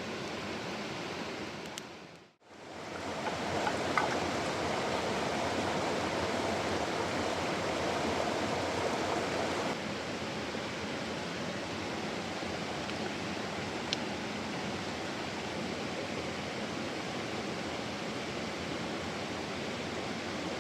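Mountain stream rushing steadily. It fades out briefly about two seconds in, comes back slightly louder, and steps down a little in level about ten seconds in.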